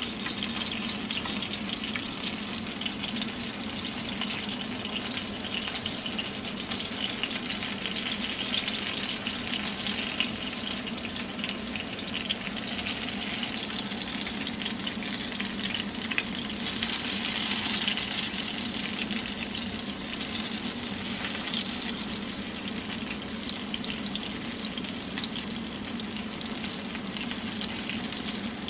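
Flour-coated karaage chicken pieces shallow-frying in oil in a non-stick frying pan: a steady sizzle and crackle that swells a little about two-thirds of the way through, with chopsticks turning the pieces now and then.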